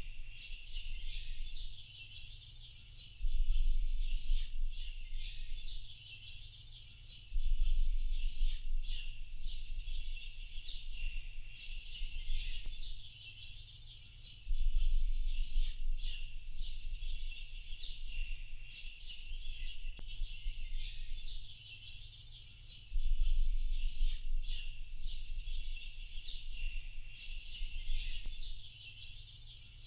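Many small birds chirping and twittering together in a dense, continuous high-pitched chorus. A deep low rumble swells in four times, each for about two seconds, and is the loudest thing heard.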